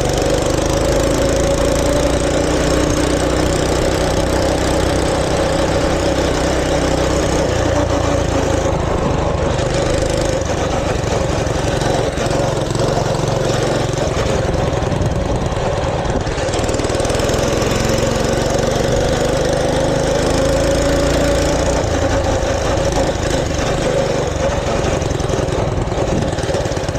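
Mini bike's small engine running steadily while under way, its pitch drifting slightly up and down as the speed changes.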